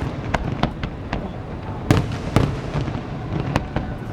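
Fireworks display: a steady rumble of distant bursts with sharp cracks and booms going off irregularly, the loudest two close together about two seconds in.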